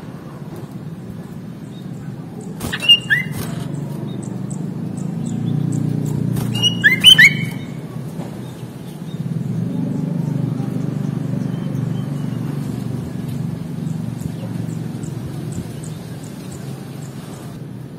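Sooty-headed bulbul giving two short bursts of sharp, bubbly call notes, about three seconds and seven seconds in, over a steady low rumble like traffic.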